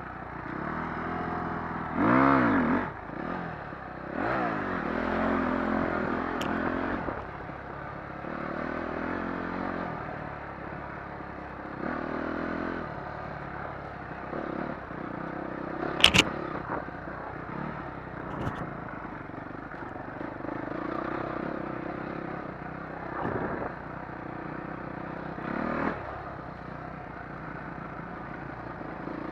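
Motocross dirt bike engine revving hard in rising and falling bursts, then running more steadily with smaller blips of throttle. There is one sharp knock a little past halfway.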